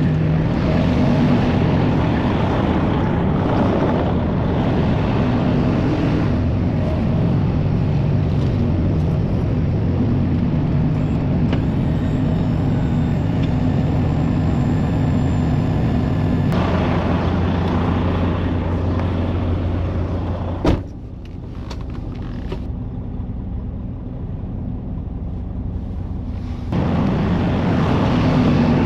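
Box truck driving: steady engine and road noise, heard from inside the cab. A sharp click about two-thirds through is followed by a quieter stretch of several seconds before the louder running comes back.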